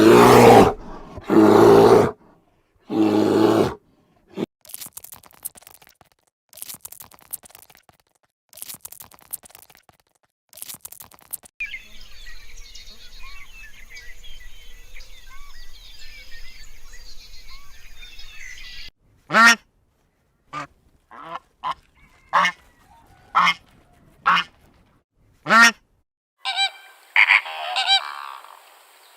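Bird honking calls, goose-like, in several separate stretches. There are three loud calls at the start, then faint distant chatter over a low hum, then a run of short sharp honks about once a second from around twenty seconds in.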